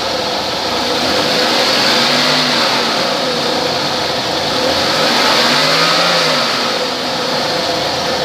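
2001 Buick Park Avenue's 3.8-litre V6 running, revved up and let back down twice.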